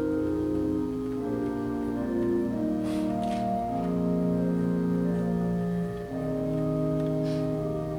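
Organ playing slow, sustained chords that change about every second, with a short break in the sound just before the last chord.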